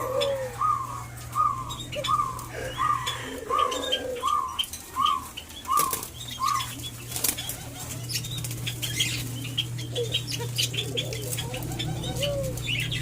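Captive doves and other birds calling: one bird repeats a short hooked note about twice a second for the first six and a half seconds, with lower calls around it. After that come scattered wing flutters and taps, over a steady low hum.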